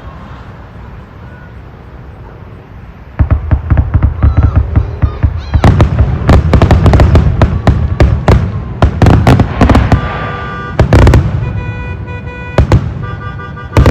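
Aerial fireworks going off in a rapid, overlapping barrage of loud bangs and crackles. The barrage starts suddenly about three seconds in, after a quieter stretch, and thins out to a few last bangs near the end, typical of a display's finale. A steady held tone with overtones rises under the last bangs.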